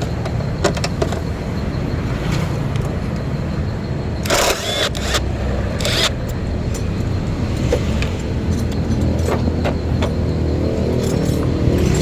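A car engine running steadily, its pitch rising a little near the end. Two short hissing bursts come about four and a half and six seconds in.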